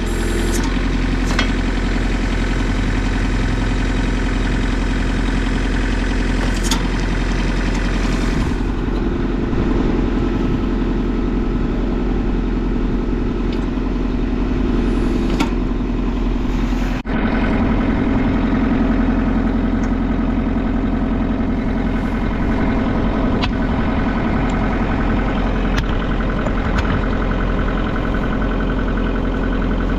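Kubota LX compact tractor's diesel engine running steadily while its backhoe hydraulics are worked to lower the outriggers and detach the backhoe. The sound drops out briefly about seventeen seconds in.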